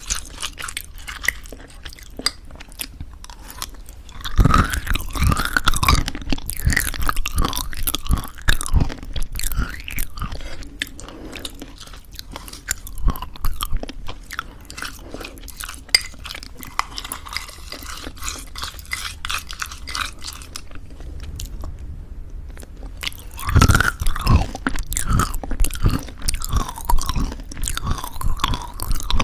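Close-miked chewing of crunchy homemade granola in thick yogurt: crisp crackling crunches with wet mouth sounds. The crunching comes in two louder, busier spells, one a few seconds in and another near the end, with softer chewing in between.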